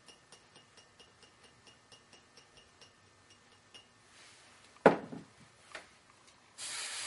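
Faint steady ticking, about three a second, which stops a little past halfway; then a sharp knock, a lighter knock, and near the end a hiss of about a second from an aerosol can of hairspray being sprayed.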